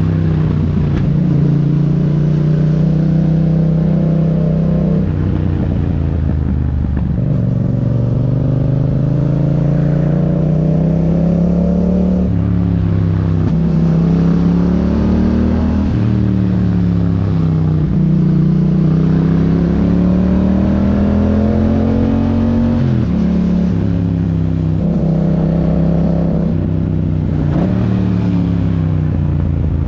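Yamaha MT-07's parallel-twin engine running through an Akrapovič aftermarket exhaust while riding. The engine note rises and falls repeatedly with throttle, with several sudden pitch drops at gear changes.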